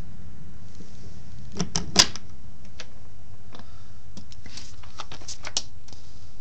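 An irregular scatter of sharp clicks and knocks from tools and parts being handled, the loudest about two seconds in, over a steady low hum.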